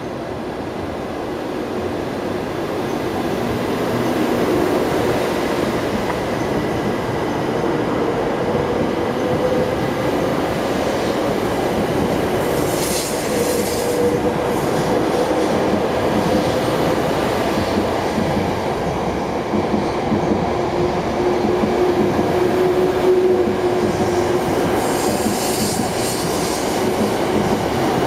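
Shinkansen bullet train running, a steady loud rail rumble with a faint whine that swells over the first few seconds and then holds. A brief hissing rush comes about halfway through and again near the end.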